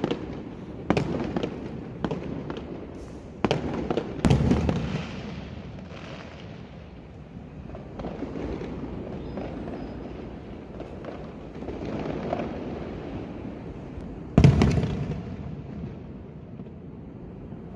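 Fireworks bursting: a quick series of bangs in the first few seconds, a loud one about four seconds in, and the loudest bang about fourteen and a half seconds in, with the steady din of more fireworks going off in between.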